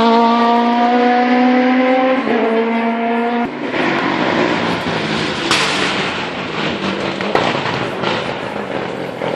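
Rally car accelerating hard at high revs, shifting up about two seconds in. About a second later the engine note cuts off abruptly, leaving a loud rough noise with a few sharp cracks.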